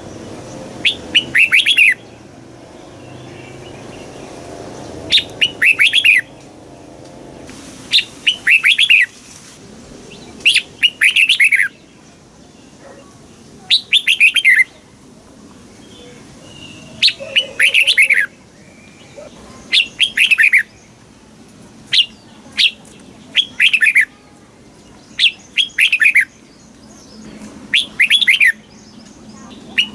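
Red-whiskered bulbul singing: short, bright phrases of quick falling notes, repeated every two to three seconds, about a dozen in all.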